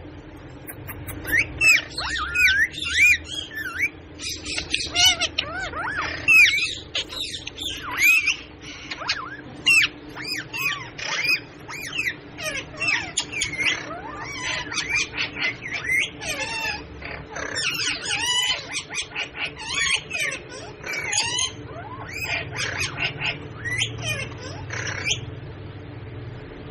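Pet parrot calling: a nearly continuous run of short squawks and whistles that swoop up and down in pitch, stopping near the end.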